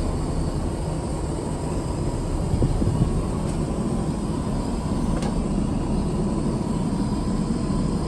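Steady cabin noise inside an Airbus A350-900: a low rumble under an even rush of air, with two faint ticks in the middle.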